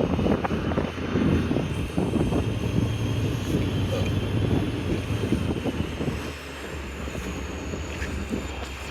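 Diesel locomotive engine running with a steady low rumble, easing off a little about two-thirds of the way through.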